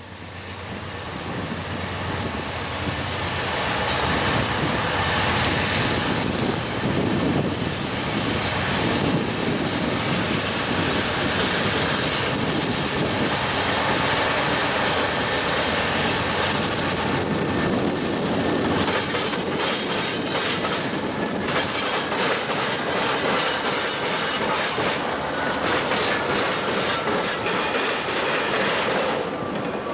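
Freight train passing close by: the diesel locomotives come up and go by, and then a long string of autorack cars rolls past with a steady clatter of wheels over the rail joints and switches. The sound builds up over the first few seconds and then stays loud.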